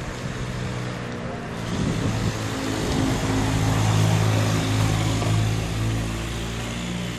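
Motor vehicle engine running close by: a steady low hum over a wide hiss, swelling a second or two in and loudest around the middle.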